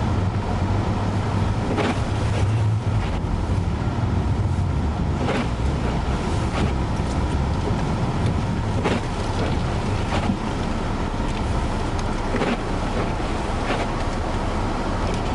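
A vehicle's engine and low rumble heard from inside the cab, with wind noise, as it pulls away through blizzard snow. Short sharp knocks come every second or two.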